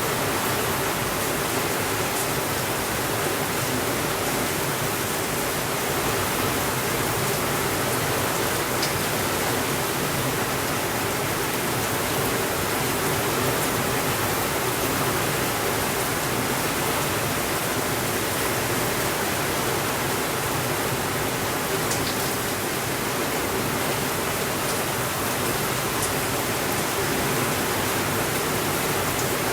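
Heavy rain falling steadily on a window, an even hiss with no let-up, with a few faint clicks scattered through it.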